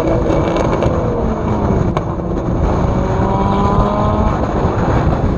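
Turbocharged 1.8T four-cylinder engine of a VW Jetta Mk4 pulling hard under acceleration: the engine note drops once, as at a gear change, climbs again, then breaks off about four seconds in.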